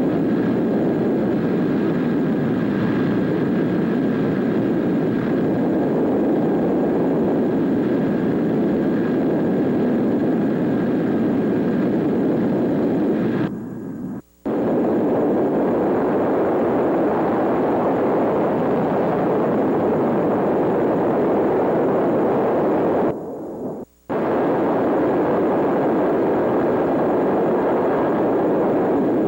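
PBY-5A Canso water bomber's twin radial engines running with a steady, loud drone, with no clear beat. The sound drops out briefly twice, about halfway through and again about four-fifths of the way in.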